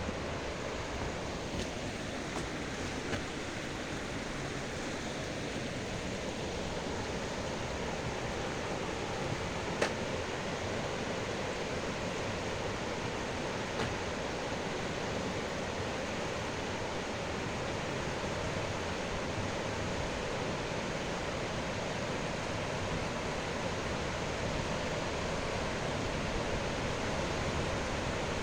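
River water rushing steadily, with a few faint knocks.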